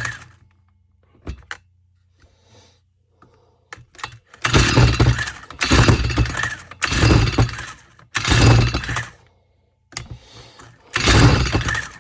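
Stihl FS 45 string trimmer's two-stroke engine being pull-started: about five quick rope pulls, each about a second long, starting about four seconds in. The engine cranks but does not catch, because it is flooded with fuel.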